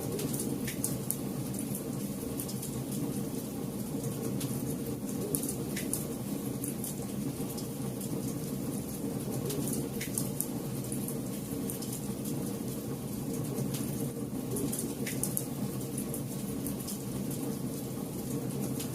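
Wood campfire burning: a steady low rush of flames with scattered, irregular crackles and sharp pops from the burning wood.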